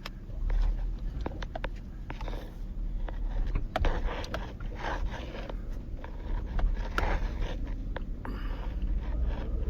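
Rattles and knocks inside a vehicle bouncing over a rough dirt track, over a steady low rumble of engine and road.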